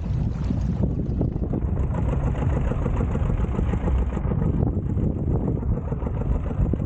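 A boat's motor running steadily, mixed with wind buffeting the microphone into a dense, low rumble.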